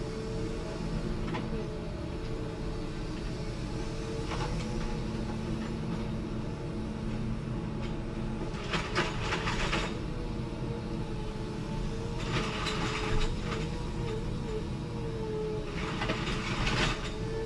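A tractor's diesel engine running steadily under a thin, wavering whine, broken about nine, twelve and sixteen seconds in by a second or so of harsh rattling noise.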